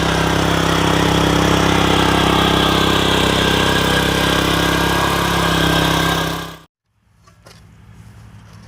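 Mini tractor rotavator engine running steadily, cutting off suddenly about six and a half seconds in. A much fainter background with a few light knocks follows.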